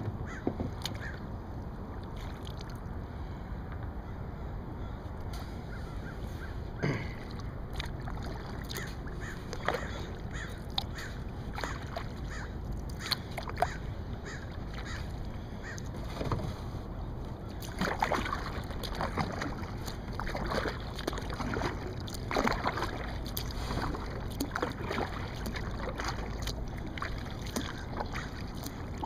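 Kayak paddling: the paddle blades dip and splash in the water at an irregular pace, more often in the second half, over a steady low rumble.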